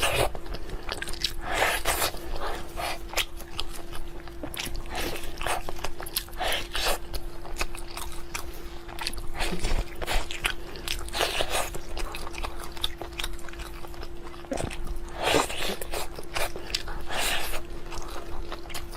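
A person biting and chewing food close to the microphone, with irregular crunchy bites spread throughout. A steady faint hum runs underneath.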